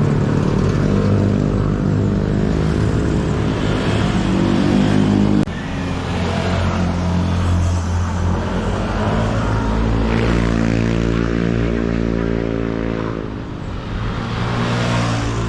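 A motorcycle engine running under way at a steady speed. Its note drops suddenly about five seconds in, then dips briefly and rises again near the end.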